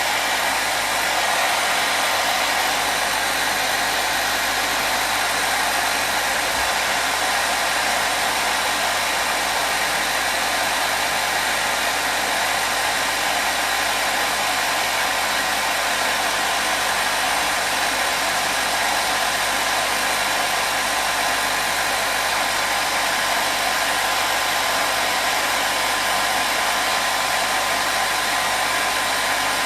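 Hair dryer running steadily: a constant, even rushing hiss of motor and blown air with a faint steady hum, used as white noise.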